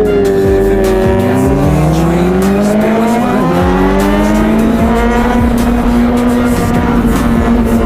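Honda CBR600RR inline-four engine under way, its pitch climbing through the first few seconds, dipping briefly about three and a half seconds in, then holding steady.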